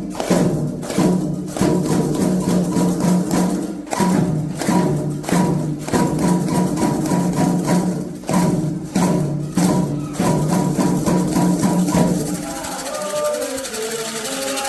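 Candomblé ritual percussion playing a steady rhythm. About twelve seconds in, the drumming drops back and voices begin singing.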